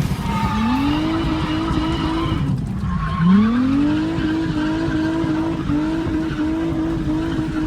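A drift car's engine revving hard, its pitch climbing twice and then held high, with the rear tyres squealing as the car slides.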